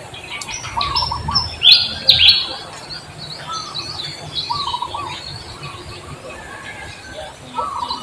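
Birds chirping: many short chirps, with a loud cluster of sharp chirps about two seconds in, then softer scattered calls.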